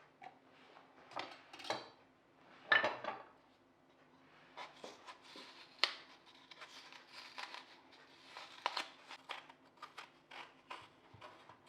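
Quiet kitchen handling sounds: irregular light clinks, taps and scrapes of dishes and utensils, with a louder rustling scrape about three seconds in and a sharp click near the middle, over a faint steady hum.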